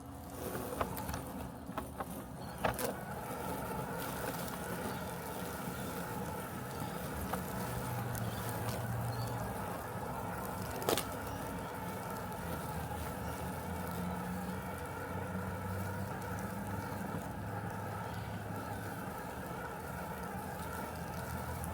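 Robotic lawn mower running steadily, its electric motors giving a continuous mechanical hum whose low pitch shifts a few times as it works the grass. A few sharp clicks stand out, the clearest about eleven seconds in.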